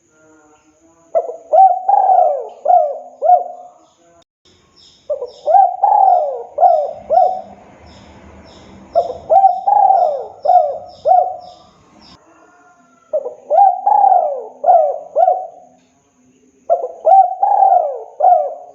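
Spotted dove (tekukur) cooing: five phrases of several short, gliding coos, one phrase about every four seconds. Faint high chirping runs under the middle phrases.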